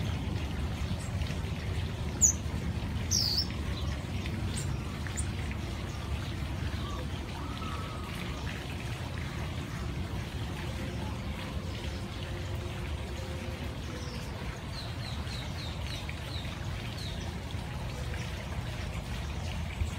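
Small birds chirping now and then, with a quick run of about six chirps near the end, over a steady low rushing background.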